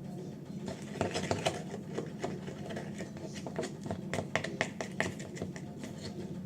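Thickening glue slime being stirred in a container: a quick, irregular run of small clicks, taps and sticky smacks over a steady low hum.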